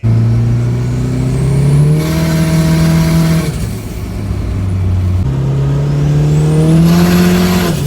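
Car engine revving up hard twice, its pitch climbing and holding high before dropping off each time, with a high whine rising along with the revs.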